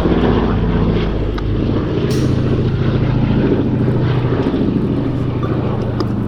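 Boeing B-17G Flying Fortress's four Wright Cyclone radial piston engines running with propellers turning, a loud steady drone of several low engine notes.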